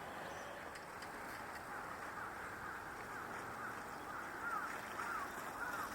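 A bird giving a run of short, repeated call notes that grow louder toward the end, over a steady outdoor hiss.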